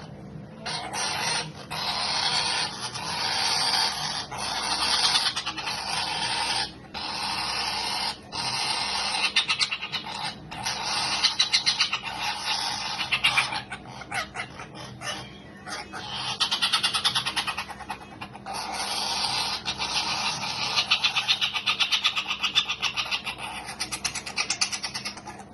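Cockatoo's feeding calls while being hand-fed: a harsh, rapidly pulsing buzz in runs of a second or more, broken by short pauses.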